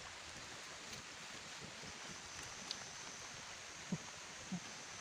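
Steady rainforest background noise, with a faint high steady tone coming in about halfway and a few soft knocks in the second half.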